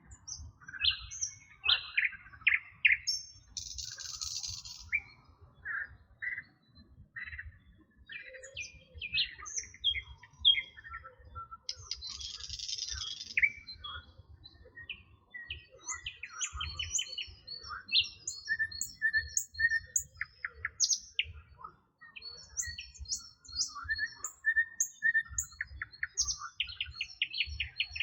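Several wild birds chirping and singing with overlapping short calls and whistled notes, broken by a few brief buzzy trills, over a faint low rumble.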